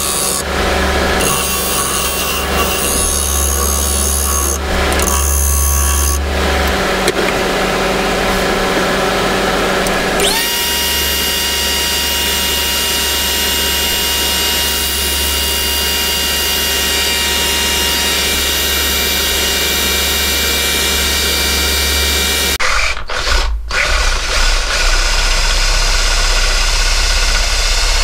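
Power tools working wood: a steady motor hum with rubbing and scraping on wood. About ten seconds in, a steady high motor whine joins it. Near the end the sound changes, with a few brief breaks.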